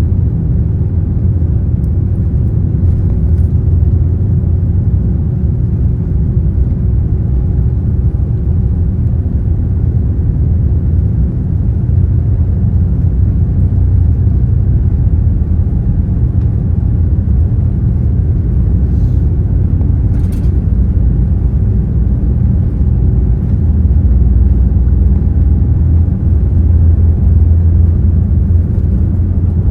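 Boeing 787-9 Dreamliner airliner giving a loud, steady low rumble, with faint steady tones above it and no rise or fall in pitch.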